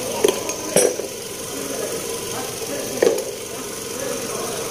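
2009 Toyota Camry's freshly installed replacement engine idling steadily, with three sharp knocks or clanks over it, two near the start and one about three seconds in.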